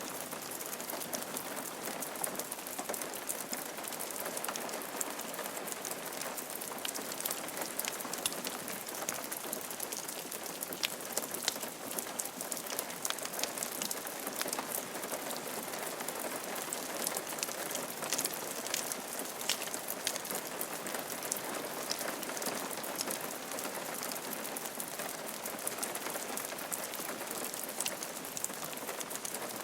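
Steady rain falling on a roof, a dense patter of individual drops over an even hiss.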